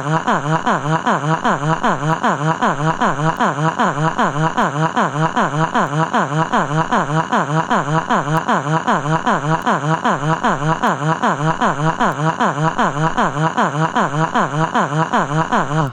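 Acapela Group text-to-speech crying voice: a synthetic voice sobbing in a fast, mechanically even run of falling wails, about four a second. It cuts off abruptly at the end.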